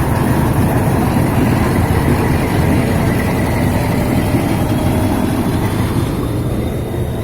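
Metre-gauge train running on the line, a loud steady rumble that eases slightly near the end.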